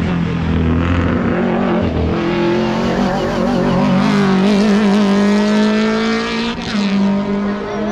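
Hillclimb race car engine accelerating hard, its pitch climbing steadily through one gear, then dropping at an upshift about six and a half seconds in.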